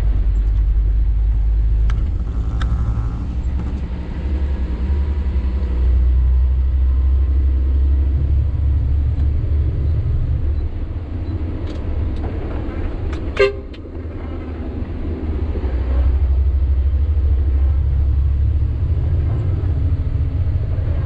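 Sany 6x4 dump truck's diesel engine running on the road, a low drone that eases and swells with the throttle. A single very short horn toot sounds about thirteen seconds in.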